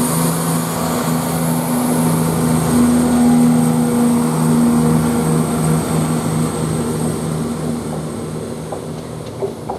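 A CrossCountry Class 170 Turbostar diesel multiple unit pulling away from the platform, its underfloor diesel engines running under power with a steady throb and a high whine. The sound fades over the last few seconds as the train draws away.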